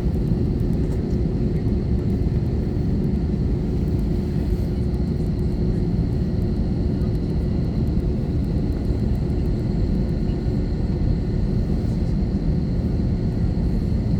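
Cabin noise inside an Airbus A321-231 on the ground: a steady low rumble from its IAE V2500 engines at idle thrust, with a faint steady high whine.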